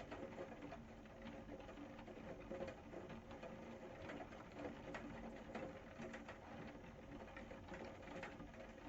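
Rain pattering, with many small irregular drop ticks over a soft steady hiss.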